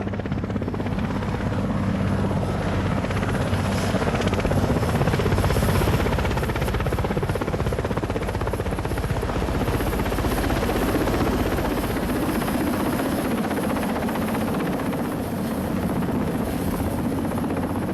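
Loud, steady mechanical drone with a fast, even pulsing and a low hum.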